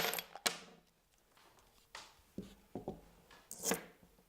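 Coins rattling in a money box, dying away within the first half second, then a few faint clicks and knocks as the box is handled.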